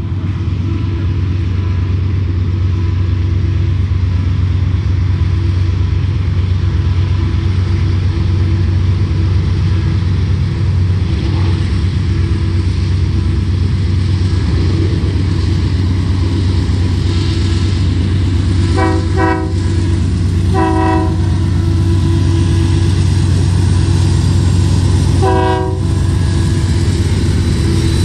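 Union Pacific diesel freight locomotives running steadily as the train approaches, with a constant low rumble. About two-thirds through, the locomotive horn sounds two quick short blasts and then a slightly longer one, and it sounds one more short blast near the end.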